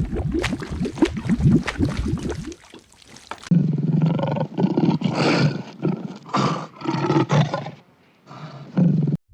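An animal growling and roaring: a rough, crackling growl first, then, after a break, several deeper pitched growling calls in a row.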